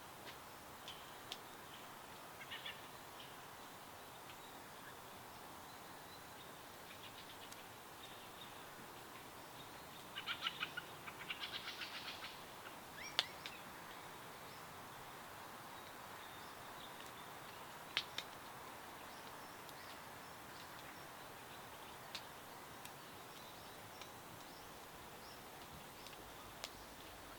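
Songbirds chirping: scattered short high chirps, with a rapid trilled run of notes about ten seconds in and a few sharp single chirps after it, over a faint steady hiss.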